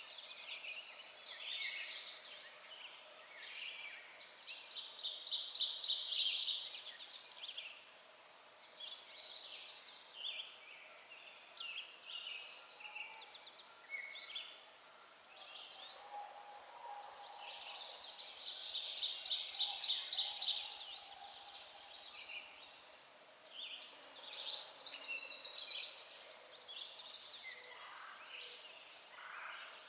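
Several songbirds singing, with trilled phrases of quick repeated notes coming and going, the loudest about a sixth of the way in, near the middle and a little before the end.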